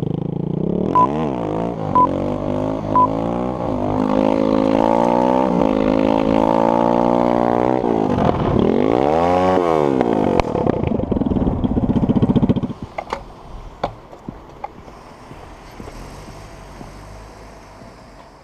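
Motorcycle engine revving, its pitch swinging up and down with the throttle and climbing to a high rev before falling away. About a second in there are three short beeps a second apart. After about 12 seconds the engine sound drops off and only a few knocks are left.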